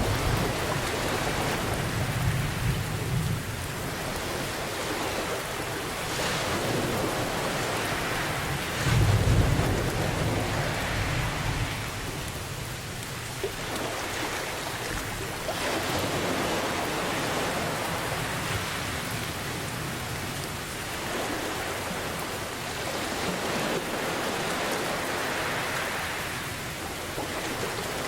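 Steady heavy rain with low rolls of thunder: one rumble in the first few seconds and a louder one about nine seconds in.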